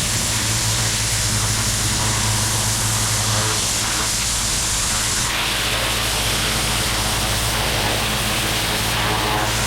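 Pressure washer blasting water against a paver patio, a steady loud hiss of spray over the machine's low engine hum; the hiss shifts in tone about halfway through as the wand moves.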